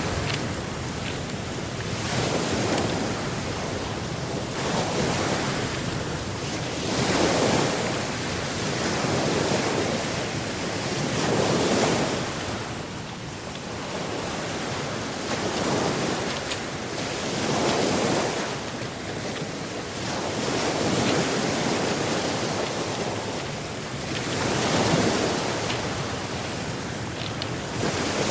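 Atlantic ocean surf breaking and washing on the shore, swelling and ebbing every few seconds.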